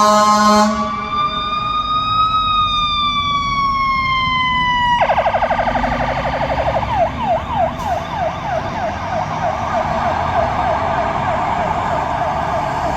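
Fire engine's electronic siren: a horn blast cuts off just after the start, then a slow wail rises and falls, and about five seconds in the siren switches to a fast yelp that fades as the engine moves away.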